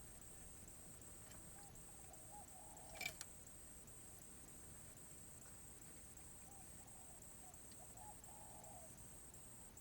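Spotted dove cooing faintly in a few short phrases, with one sharp click about three seconds in.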